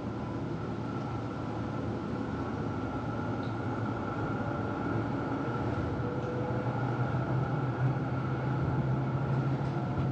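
Melbourne tram running along its track, heard from inside the passenger cabin: a steady rumble with a constant low hum and a fainter higher tone, growing slightly louder towards the end.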